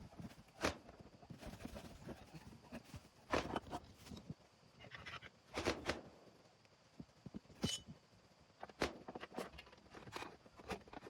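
Irregular knocks and clanks of tools and metal parts being handled: about half a dozen sharp strikes with softer rattling between, one giving a brief metallic ring about two-thirds of the way through.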